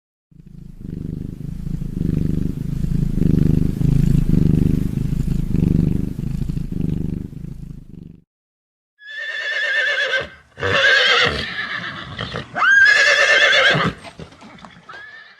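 Horse whinnying: several loud, wavering whinnies in the second half, the last one fainter. They follow about eight seconds of a low, pulsing rumble.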